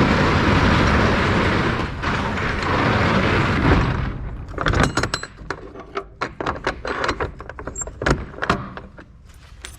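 A loud, steady rushing hiss that cuts off suddenly about four seconds in, followed by a quick, uneven run of clicks, knocks and rattles like keys and latches being handled.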